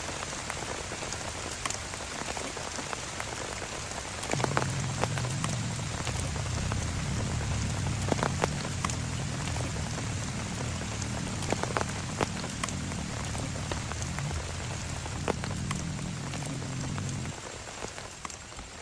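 Rain falling steadily, with sharp single drops striking close by. About four seconds in a low rumble joins the rain, then stops suddenly near the end.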